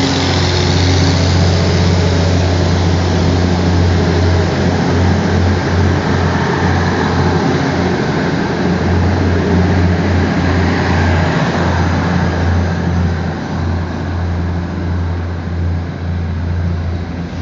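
Diesel railcar train pulling out past the platform: a steady low engine hum over the noise of wheels on the rails. It eases off near the end as the train draws away.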